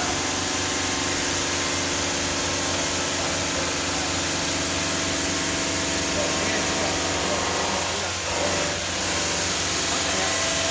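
Denver 5-axis CNC bridge saw running through a cut in black granite: a steady machine hum with an even hiss over it, dipping briefly about eight seconds in.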